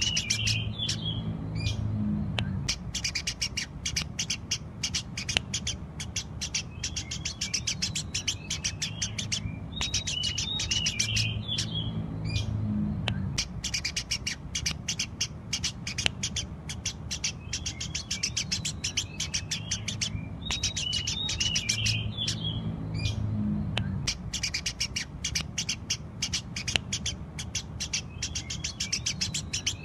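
Eurasian tree sparrows chirping rapidly and continuously in a dense stream of sharp chirps, over a steady low hum. The same passage comes back about every ten seconds, as in a looped recording.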